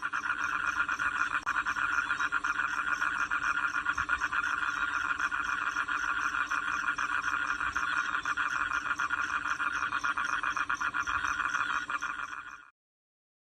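A steady, fast-pulsing animal trill, like a calling frog or insect, held unbroken for about thirteen seconds before it cuts off abruptly.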